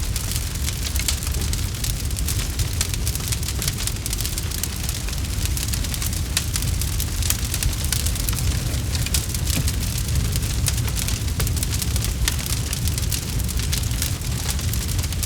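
Campfire crackling: burning wood giving off many quick pops and snaps over a steady low rumble.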